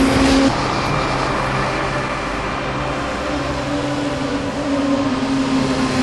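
Honda CBR600 sport bike's inline-four engine running with a steady note as the bike rides along the road. About half a second in the sound drops abruptly in level and changes.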